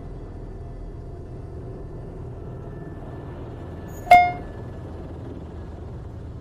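Airbus H130 T2 helicopter running on the ground just after landing: a steady low hum with a faint high whine. About four seconds in, a single sharp metallic click rings briefly over it.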